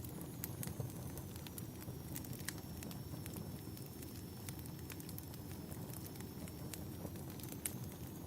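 Bonfire burning: a steady low rush of flames with scattered sharp crackles and pops from the burning wood, and a faint, thin, high whistle that sags slightly in pitch and rises again over most of the stretch.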